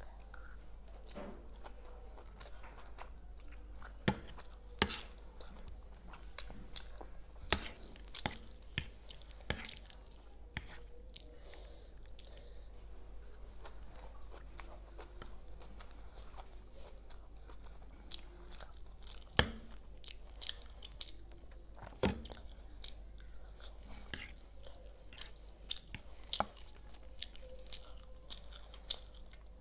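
Close-miked chewing and eating of chowmein noodles with chilli chicken, with wet mouth sounds and many scattered sharp clicks, a few of them loud.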